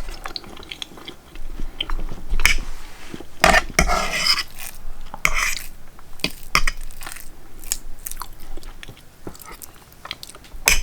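A person chewing a mouthful of food, with irregular wet mouth smacks and clicks.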